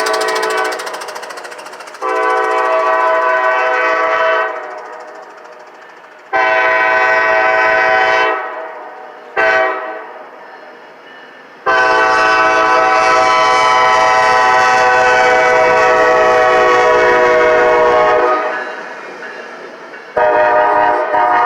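Norfolk Southern locomotive's air horn sounding the grade-crossing signal: two long blasts, a short one, then a long one held about six seconds. The end of an earlier blast fades out just under a second in, and a choppier blast starts near the end.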